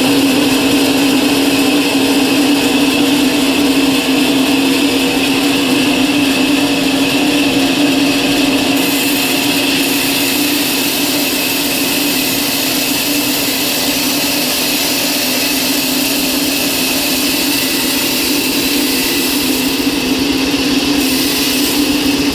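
A machine motor running steadily for the whole time, with a constant hum and no changes in speed.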